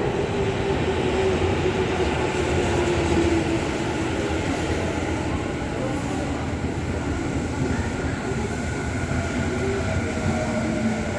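Tokyu 5050 series 4000-subseries electric train running along the platform, with steady wheel-and-rail noise and a thin motor whine that slowly falls in pitch as it slows to stop.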